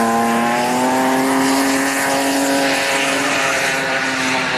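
A drift car's engine held at high revs through a slide, its note holding steady with a slight rise and fall, over a rushing hiss.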